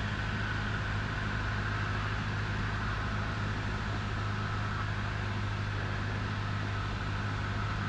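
1977 Cessna 172N's four-cylinder Lycoming engine and propeller throttled back on final approach, heard inside the cabin as a steady low drone with a fainter steady whine above it.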